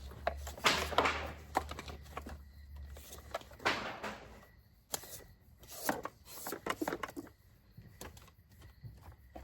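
Handling of a child car seat while its fabric cover is put back on: fabric rustling in two longer swishes and many sharp plastic clicks and knocks.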